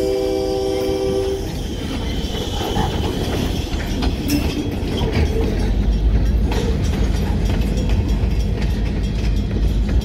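Union Pacific diesel locomotive's horn sounding a steady chord that cuts off about a second and a half in, then the last freight cars, a covered hopper and a tank car, rolling past with steel wheels clicking over the rail joints and a rumble of wheels on rail.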